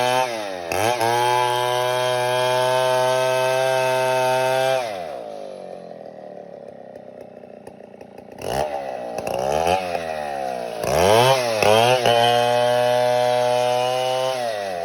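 Two-stroke chainsaw held at high revs for about four seconds, then dropping to idle for about three seconds. It is then revved up and down several times and held at high revs again near the end.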